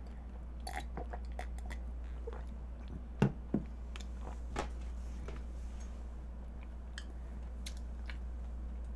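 A person chewing food close to the microphone: soft mouth sounds and scattered small clicks, with two louder ones a little past three seconds in. A steady low hum runs underneath.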